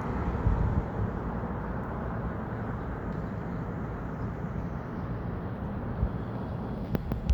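Steady low rumble of a Metrolink train moving away, slowly fading, with a couple of sharp clicks near the end.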